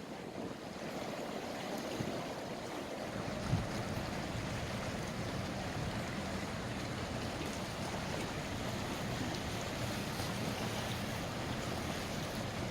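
Steady low drone of a large cruiseferry's diesel engines as she passes, mixed with wind on the microphone and water noise. A brief knock about three and a half seconds in.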